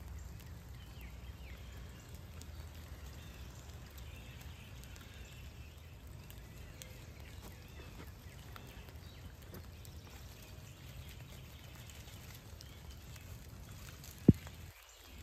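Steady rain ambience in woods: a soft, even wash of falling rain with faint scattered drips. A single sharp click comes near the end.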